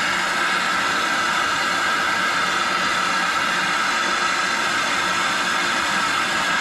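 Soldering torch flame hissing steadily while copper water-heater pipe joints are heated for soldering.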